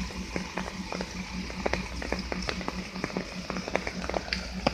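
Heavy truck's diesel engine running steadily with an even, fast throb, under scattered sharp clicks and crackles.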